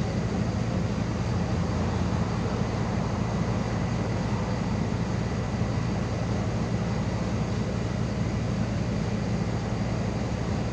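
Steady engine and road noise heard inside the cabin of a MAZ 216.066 city bus: an even, unchanging rumble with a faint steady high whine.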